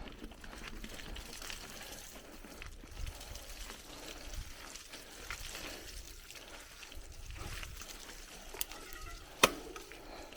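Bicycle rolling along a forest trail: tyre noise on dirt and gravel with small rattles and ticks, and a sharp clack about nine and a half seconds in.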